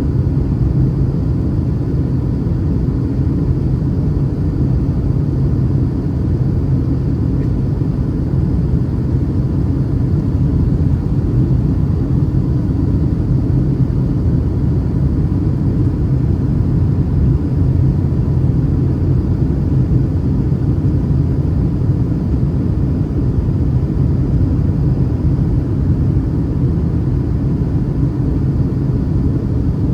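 Boeing 737-800 cabin noise heard from a window seat over the wing: the steady, deep rumble of the engines and airflow, unchanging throughout.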